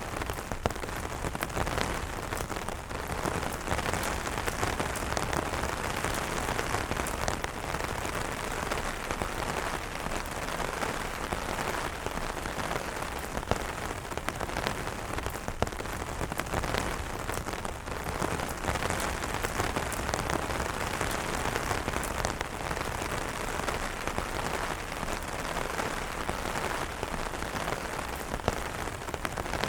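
Steady rain falling on umbrellas: a constant rushing hiss with many distinct drop hits ticking through it.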